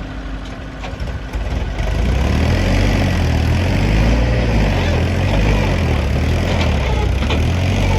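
A heavy diesel engine of the backhoe loader or a tractor working, growing louder about two seconds in, its pitch rising and falling as the load changes.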